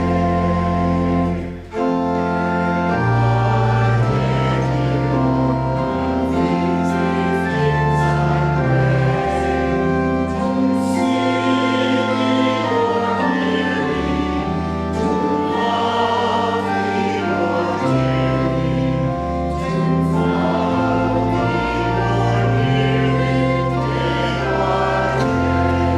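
Choir singing a hymn or anthem over organ accompaniment with long held bass notes. The sound breaks off briefly about two seconds in, then continues.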